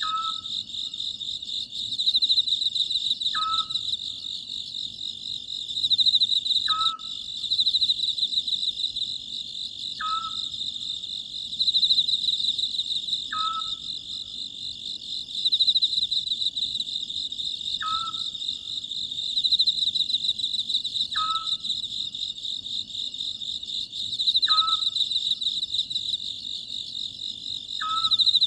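Oriental scops owl calling, a short hoot repeated steadily about every three and a half seconds, over a continuous chorus of crickets trilling, which swells and fades every few seconds and is the loudest sound.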